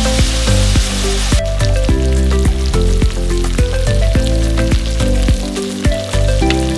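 Food sizzling and frying in a pan, with hissing that thins to crackling about a second and a half in, under background music with a steady beat.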